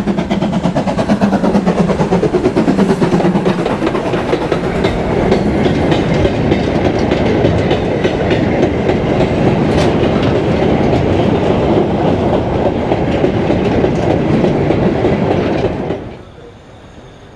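A steam train passing close by, loud and continuous, its wheels clattering rapidly over the rail joints, hauled by the Ivatt Class 2MT steam locomotive 46521. The sound cuts off suddenly near the end.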